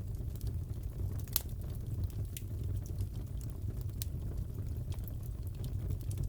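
Crackling fireplace: a steady low rumble of burning with scattered sharp pops and snaps, the sharpest about a second and a half in.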